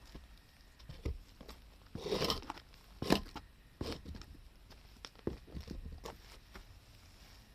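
Burning firewood crackling with irregular sharp pops, with a short crunching burst about two seconds in and the loudest pop about a second later.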